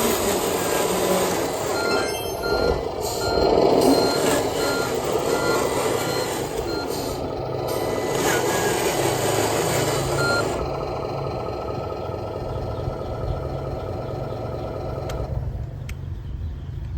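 Truck reversing beeper sounding about twice a second over a running truck engine sound; the beeping stops about ten seconds in while the engine sound carries on.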